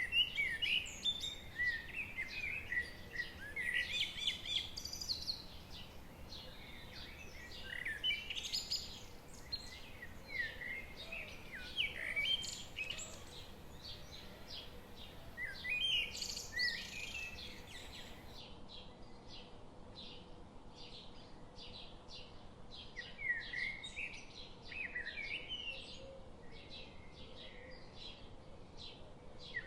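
A chorus of songbirds chirping and trilling, many short overlapping calls, over a faint steady background hiss. About two-thirds of the way through, the sound turns a little duller as the highest frequencies drop away.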